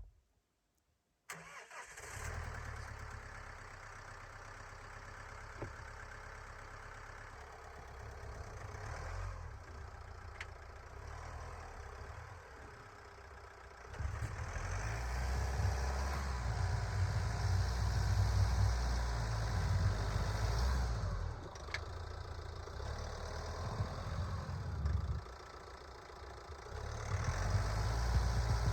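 Vehicle engine running steadily, getting louder about halfway through, easing off briefly and then rising again near the end.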